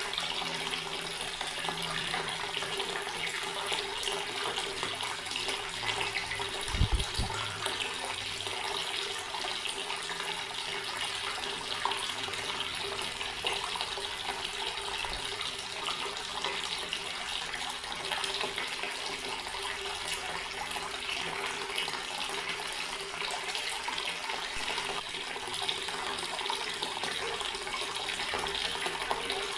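Garden water tap running steadily, the stream splashing continuously. A brief low thump about seven seconds in.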